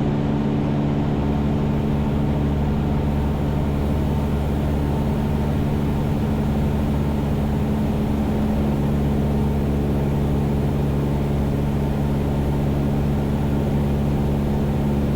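Cessna 172's piston engine and propeller droning steadily in cruise, heard from inside the cabin: an even hum with several steady low tones.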